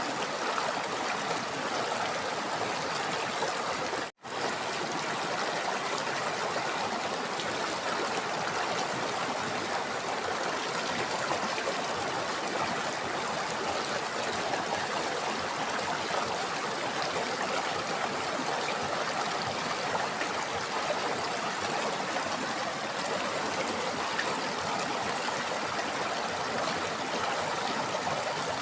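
River water flowing steadily, with a split-second cut to silence about four seconds in.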